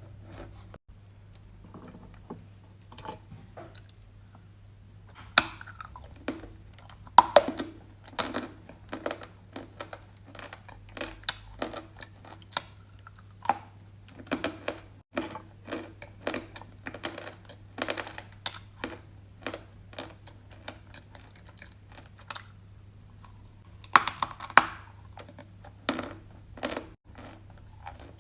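Close-up crunching of dry, crumbly edible clay being bitten and chewed: a quick, irregular run of crisp crackles and clicks, with a few louder crunches in clusters. A steady low hum sits underneath.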